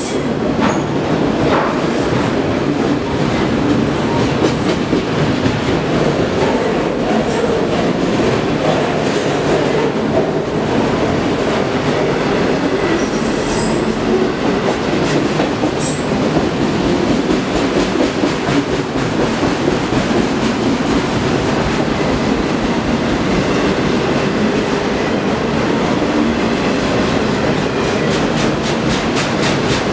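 Autorack freight cars of a BNSF train passing close by at speed: a steady, loud rumble and rattle of steel wheels on the rails, with scattered sharp clicks as the wheels run over the track.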